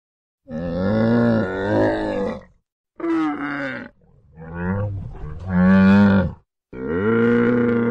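A large animal calling five times in a row, deep drawn-out bellowing calls with a clear pitch; the last call is held and runs on.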